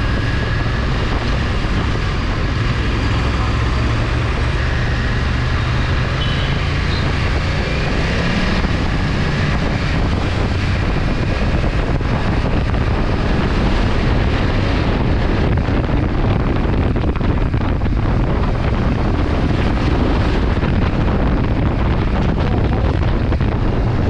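Wind rushing over the microphone with a BMW motorcycle's engine running under it, steady while the bike is ridden at speed.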